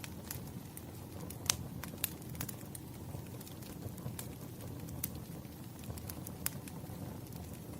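Burning firewood crackling: a steady low rumble with scattered sharp pops and snaps, the loudest about one and a half seconds in.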